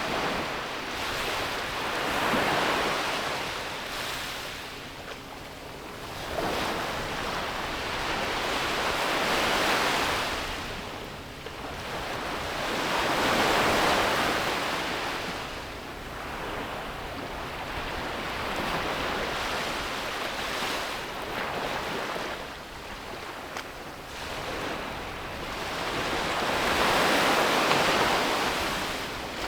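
Ocean surf breaking and washing up a beach, a rushing sound that swells and fades in long surges several seconds apart.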